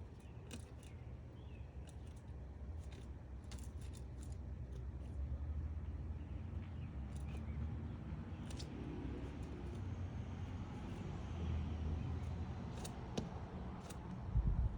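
Woodpecker chiselling wood to dig out a nest cavity: scattered, irregular sharp taps and chips, a few at a time, over a steady low rumble.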